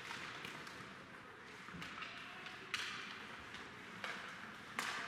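Hockey rink sounds during play: hissing scrapes of skates on the ice, with two sharp knocks of stick, puck or boards, one a little past halfway and one near the end.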